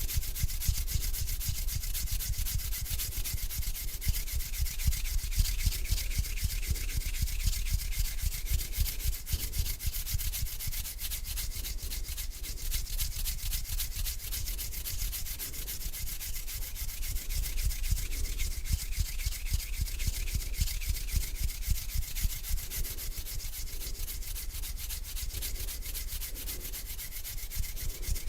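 Hands rubbing together slowly and continuously: a dense, close-miked skin-on-skin rubbing.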